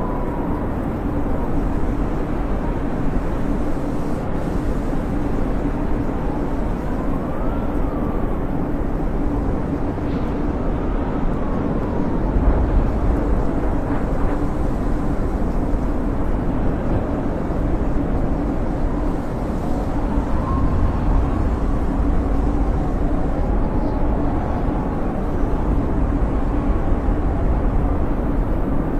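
Storm wind blowing hard and steadily with a low rush, and faint whistling tones that slowly rise and fall.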